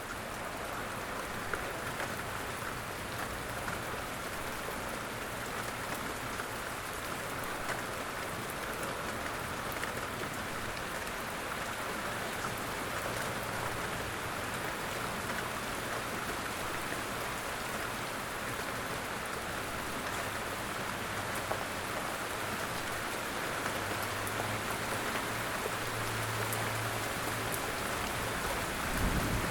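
Light rain falling steadily, with scattered drops ticking sharply on surfaces. A faint low hum runs underneath and grows stronger near the end.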